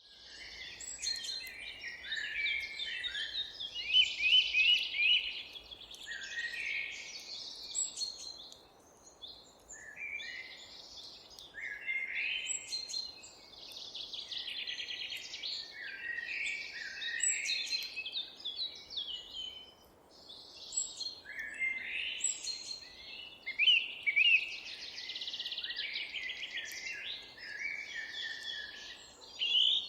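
Several songbirds singing in overlapping, chirping phrases over faint background noise, with brief lulls about eight and twenty seconds in.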